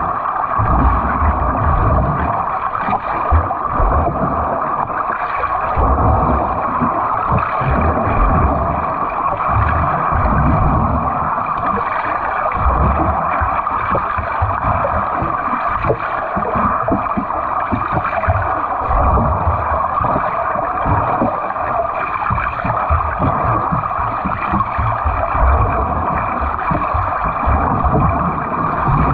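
Water churning and splashing from a swimmer's fast freestyle strokes, with low surges about once a second as the arms pull and the legs kick.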